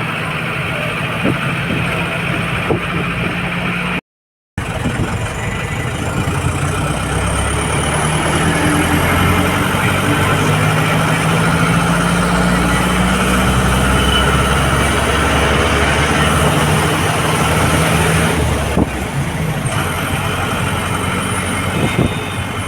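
Motor vehicle engine running steadily with road noise, getting louder through the middle and easing again near the end. The sound cuts out briefly about four seconds in.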